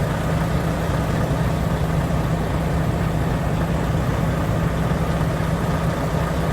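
Volvo truck's diesel engine running steadily at idle, a constant low drone with no change in pitch.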